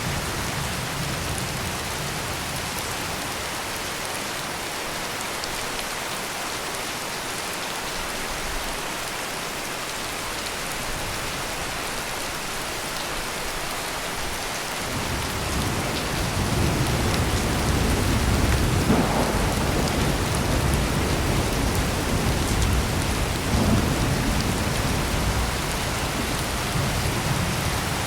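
Heavy rain pouring steadily, with a long low roll of thunder coming in about halfway through, swelling and then fading away near the end.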